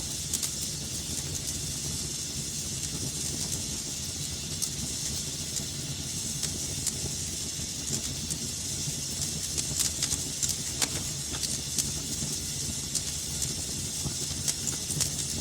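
Wood fire burning in a fireplace: a steady hiss and low rumble with irregular sharp crackles and pops, which come more thickly around the middle.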